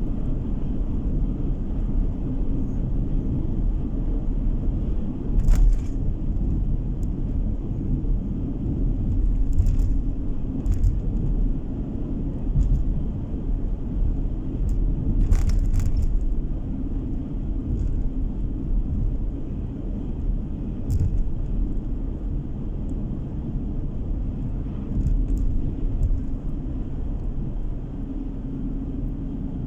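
Car driving along a road, heard from inside the cabin: a steady low rumble of engine and tyres on the road surface, with a few brief ticks or knocks from bumps along the way.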